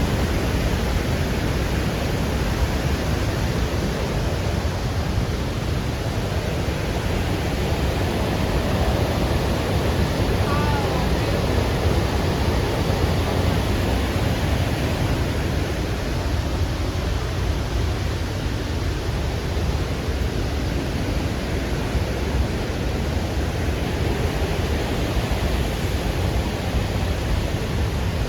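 Waterfall of the Lech river: a steady, unbroken rush of falling water.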